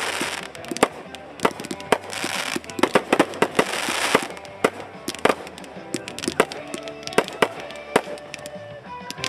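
Fireworks going off: a rapid run of sharp bangs and pops, with hissing crackle bursts in the first half. Music plays underneath and comes forward in the second half.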